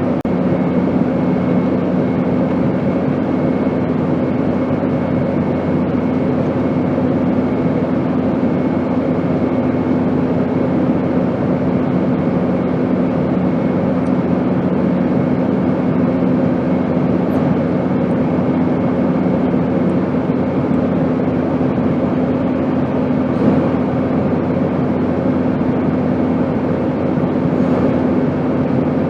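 Airplane noise: a steady, unbroken rumble with a constant hum running through it.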